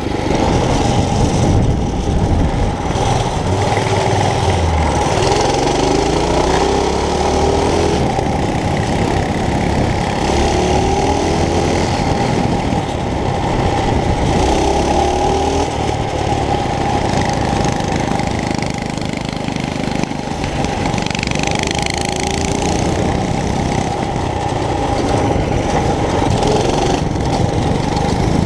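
Mini bike's small engine running steadily, its pitch rising several times as it is revved up under throttle.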